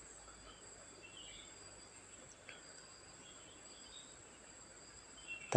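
Faint, steady high-pitched insect trilling in two constant tones, with a few faint scattered bird chirps. A sharp click comes right at the end.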